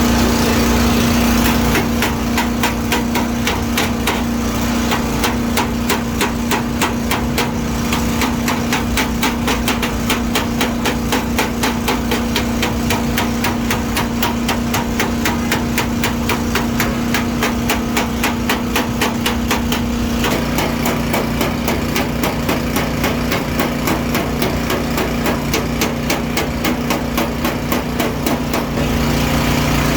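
Hammer tapping out dents in a car's sheet-metal body panel: a long, even run of quick taps over a steady machine hum.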